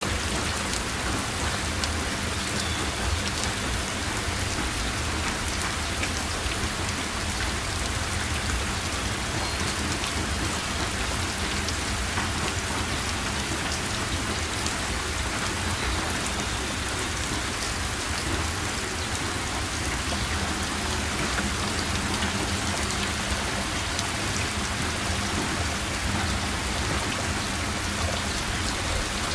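Heavy rain falling steadily on a metal roof, an even hiss of drops.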